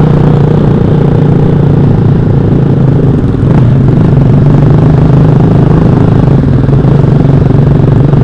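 Motorcycle engine running loud and steady through a noisy exhaust, at an even speed, with a brief dip about three and a half seconds in.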